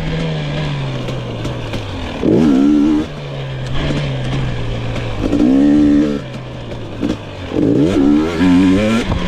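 2022 GasGas EX 250 two-stroke engine being ridden, revving up hard in several throttle bursts with its pitch falling back between them.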